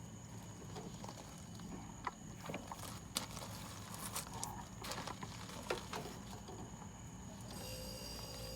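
Scattered light clicks and knocks, then about seven and a half seconds in the mini fridge's compressor starts and runs with a steady hum: the newly fitted start device is getting it going.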